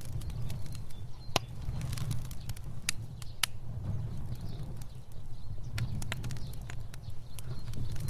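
Fire crackling: a steady low rumble of burning with sharp pops and snaps scattered irregularly through it, a few louder pops about a second and a half in and around three seconds in.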